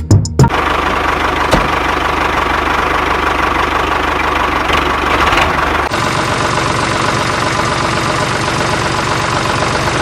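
Tractor engine running steadily. The recording changes abruptly about six seconds in, and a similar engine sound carries on after the change.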